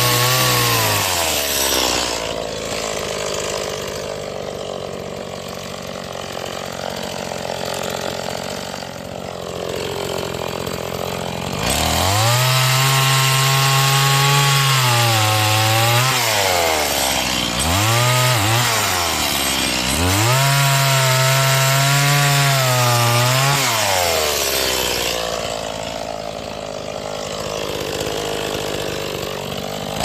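New Stihl MS 180 two-stroke chainsaw, still being broken in, cutting firewood. The engine revs up and holds high through cuts, drops back to idle twice for several seconds, and blips the throttle a few times in between.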